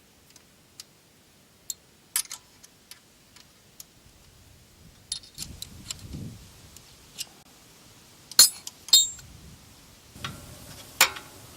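Scattered metallic clinks and taps of an Allen key and small metal parts being handled while taking the oil filter out of a motorcycle. The clinks come at irregular intervals, and the loudest two come close together about eight and a half seconds in.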